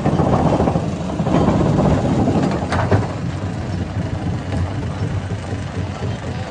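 Hammer-type stone crusher running, with a dense rushing, grinding noise over the first three seconds and a single sharp knock near three seconds in, then a steadier low running drone.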